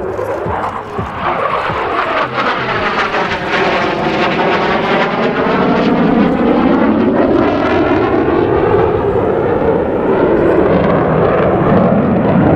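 An F-16 Fighting Falcon jet flying past with a loud, rushing engine noise. Its tone sweeps as it goes by, and it grows louder toward the end.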